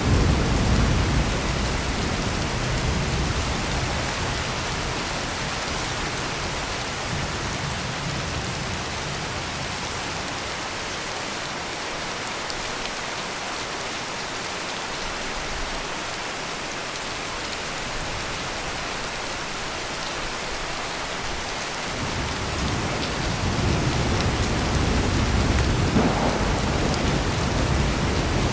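Heavy rain pouring steadily, with low rolling thunder that dies away over the first few seconds and builds again about three-quarters of the way through.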